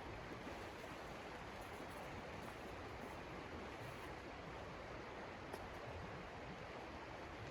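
Steady, even rushing noise with no distinct events, and one faint tick about five and a half seconds in.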